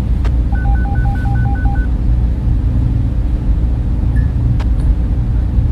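Loud, steady whir of server room cooling fans, heaviest in the low range with a slight pulsing. About half a second in, a run of seven short two-toned electronic beeps sounds. A couple of faint clicks and a brief chirp come later.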